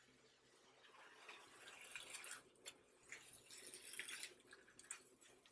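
Faint sizzling of deli turkey slices frying on a hot griddle, building about a second in, with several short scrapes and taps of a plastic spatula pushing and turning the slices.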